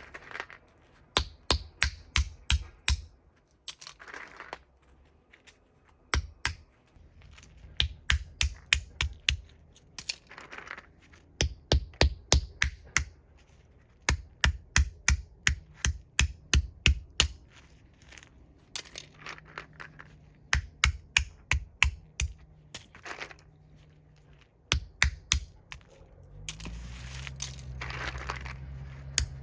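Knife chopping on a cutting board: quick runs of sharp knocks, about five a second, broken by short pauses. A steady low hum comes in near the end.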